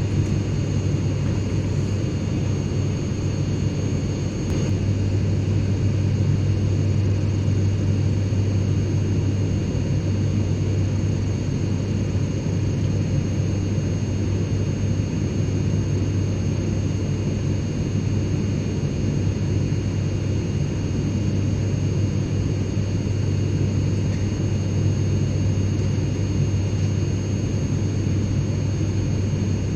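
Airplane cabin noise in flight: a steady, deep rumble with a faint constant whine of high tones above it.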